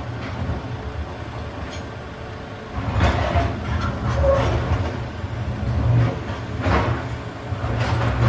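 Volvo EC380EL excavator working in rock: its diesel engine and hydraulics rumble steadily under load, with harsher surges of rock grinding and clattering about three seconds in, near seven seconds and near the end.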